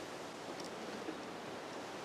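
Steady, even rushing outdoor background noise with a few faint, short rustles and ticks.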